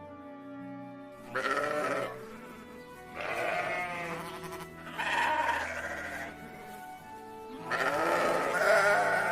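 Sheep bleating four times, each bleat about a second long with a wavering pitch, over background music.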